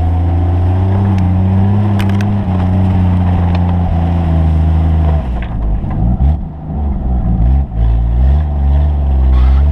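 Engine of a small 4x4 running under load as the vehicle drives through deep snow. A little past halfway the engine note drops and wavers unevenly, with brief dips in loudness, then steadies and rises again near the end.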